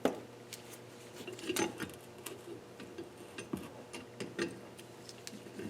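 Irregular light metallic clicks and clinks from a valve-removal tool and valve parts on a KA24DE cylinder head as the valves are taken out. There is a louder knock at the start and another about a second and a half in.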